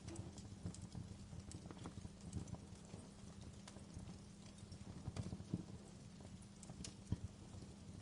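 Wood fire crackling in a fireplace: a low steady rumble with irregular small pops and snaps, one sharper pop about seven seconds in.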